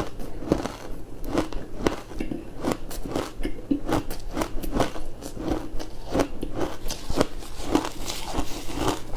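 Close-miked biting and crunching of frozen food, with sharp irregular crunches a few times a second.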